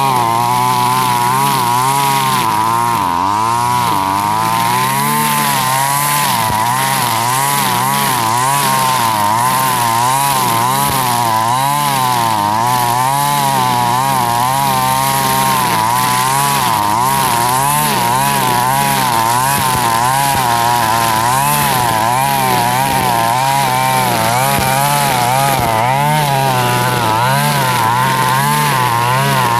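Husqvarna 542RBS backpack brush cutter's two-stroke engine running at high revs with a nylon-line trimmer head cutting grass. The engine pitch wavers up and down continuously as the line meets the grass.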